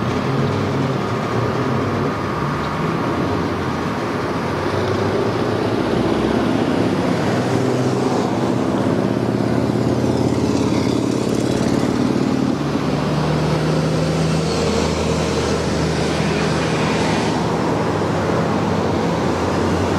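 A vehicle passing close by: a loud, steady rush of running noise with an engine drone underneath, coming nearest about halfway through.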